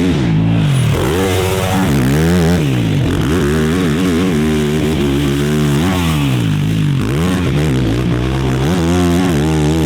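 A dirt bike engine revving up and falling back again and again, the pitch rising and dropping every second or two over a steady low drone.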